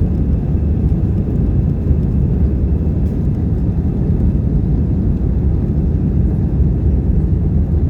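Steady, loud rumble of an Airbus A320's CFM56-5B engines and airflow, heard inside the passenger cabin as the jet departs under high thrust.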